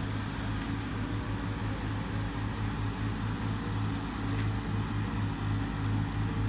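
Tractor diesel engines labouring under heavy load as they haul a loaded sugarcane trolley up an incline, a steady low pulsing drone.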